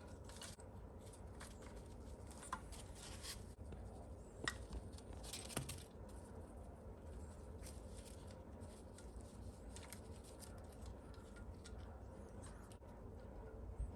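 Faint clicks, taps and rustling of small kit parts being handled during model assembly, with a few sharper clicks about four and a half and five and a half seconds in, over a low steady hum.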